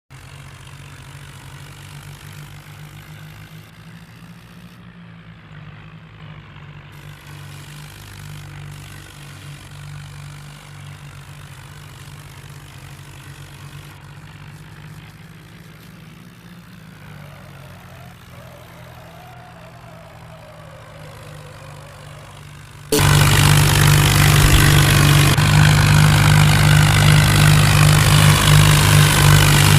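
Diesel tractor engine running steadily under a low, even throb. About three-quarters of the way through it suddenly becomes much louder and fuller, and stays that way.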